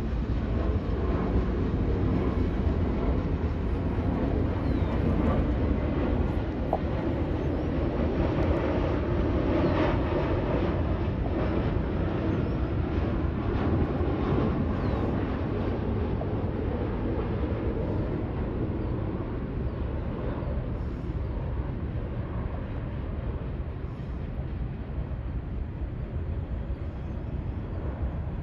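A train rolling past on the rail line: a steady rumble with faint wheel clatter that eases off gradually over the second half.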